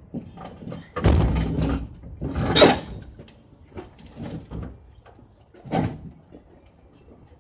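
Scraping and bumping of a refrigerator being shifted and lifted, in a few rough bursts: a long one about a second in, a louder one around two and a half seconds, and another near six seconds.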